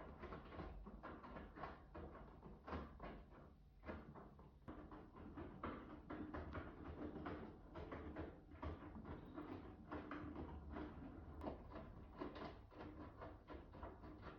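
Miele W2 front-loading washing machine mid-wash: the drum turning with wet denim tumbling, giving a faint, irregular run of soft thuds and sloshes over a steady low hum.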